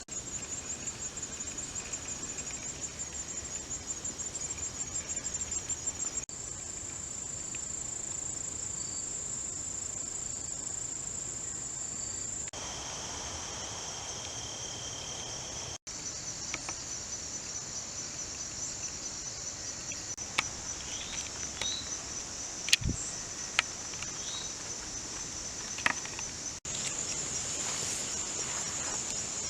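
Steady high-pitched insect chorus, a continuous fine pulsing trill that shifts in pitch and texture a few times. A few faint clicks sound in the later part.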